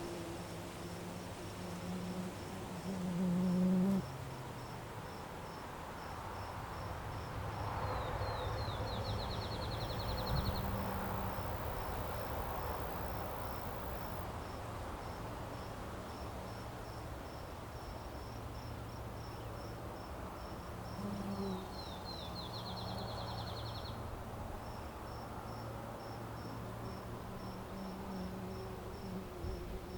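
Crickets chirping steadily, about three high chirps a second, over a low steady drone. Twice a short, fast trill sounds, once about eight seconds in and again past twenty seconds.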